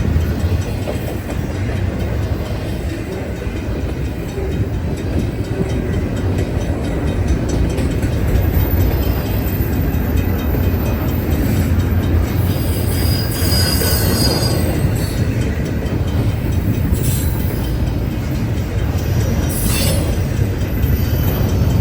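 Intermodal freight cars rolling past on the rails with a steady low rumble, with wheel flange squeal rising about halfway through and two sharp knocks in the last few seconds.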